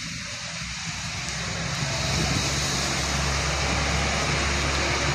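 Diesel engine of an Alexander Dennis Enviro500 MMC double-decker bus running, growing louder about two seconds in as it comes closer, over a steady hiss of rain and wet road.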